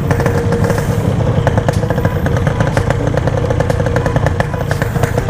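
Motorcycle engine running at a standstill, steady, with a rapid irregular crackle of sharp pops over it.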